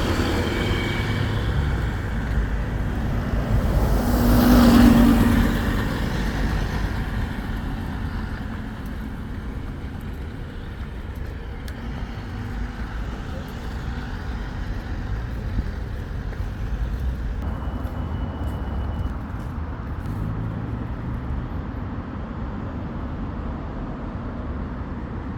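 Urban road traffic at traffic lights: a steady low rumble of engines, with one vehicle passing close and loud about four to five seconds in.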